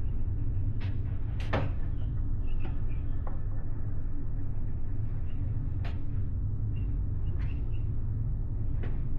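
Steady low rumble of a large car ferry under way, heard from inside a cabin, with scattered short clicks and creaks over it.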